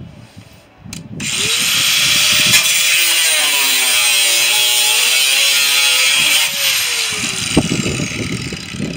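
Electric power tool cutting into scrap metal: it starts about a second in and runs loud for about five seconds, its motor pitch sagging and recovering under load, then is released and winds down with a falling whine.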